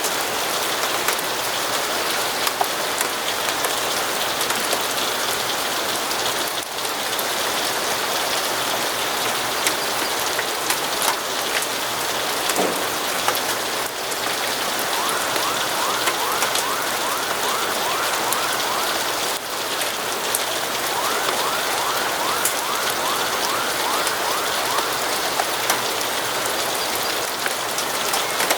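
Steady rain falling and pattering on surfaces, an even hiss with scattered small clicks of drops. Twice in the second half a faint, fast-repeating sound runs for a few seconds under the rain.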